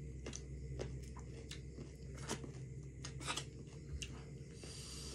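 Close-up chewing of a mouthful of chicken biryani, with scattered short mouth clicks and smacks over a steady low hum. A brief hiss comes near the end.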